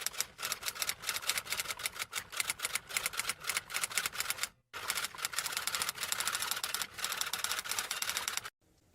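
Typing: a fast, uneven run of keystroke clicks, breaking off briefly about halfway through and then carrying on.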